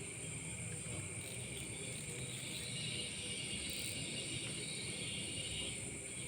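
A night chorus of insects: several steady, high-pitched drones held at different pitches, over a low rumble.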